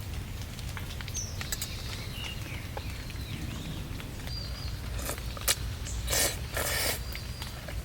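Small handling noises of camp cooking: scattered clicks and a few short rustles or scrapes, the loudest a little past halfway, over a steady low outdoor rumble with faint bird chirps.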